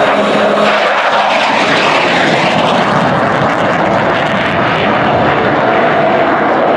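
Loud, steady rushing noise of an F-15 Eagle's twin jet engines as the fighter passes, with a swooping shift in tone about two seconds in.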